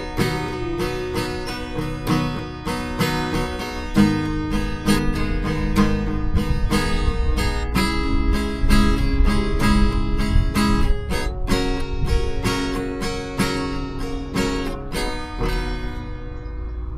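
Background music: an instrumental acoustic guitar passage of quick, evenly paced strummed and plucked notes, with no singing.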